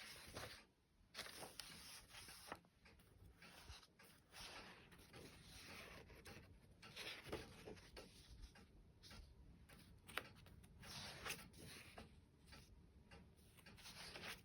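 Faint rustling and soft scraping of paper book pages being turned and handled, in short irregular bursts with a few light clicks.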